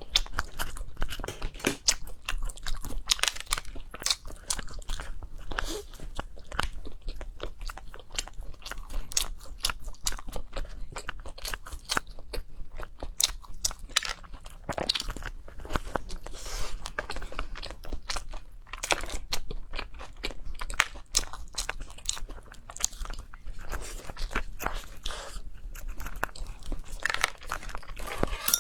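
A person crunching and chewing food close to the microphone, with many crisp crackling bites and chews one after another.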